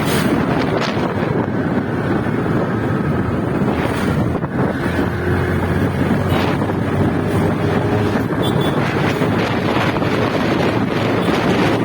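Steady wind rushing over the microphone of a moving motorcycle, with the engine running underneath.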